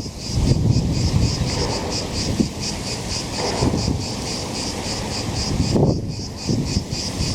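Insects chirping in a steady, high-pitched rhythm of about five pulses a second, over a low rumbling background.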